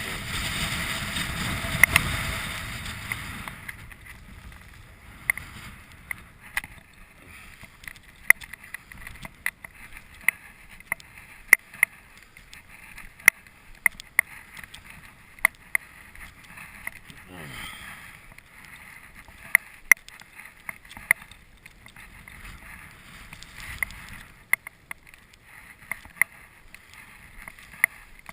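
A gust of wind buffets the microphone for the first few seconds and then dies away. After that come footsteps crunching through deep snow, about one step a second.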